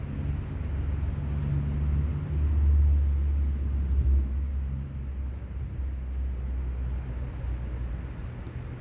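Low engine rumble with a steady hum, swelling about two to four seconds in and then easing off.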